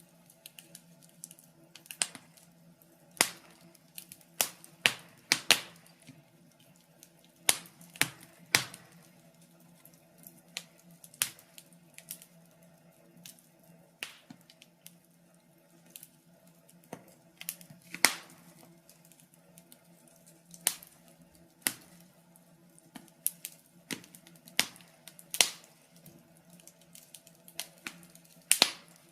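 Wood fire in a fireplace crackling: sharp, irregular pops and snaps, about one a second, some much louder than others, over a faint steady hum.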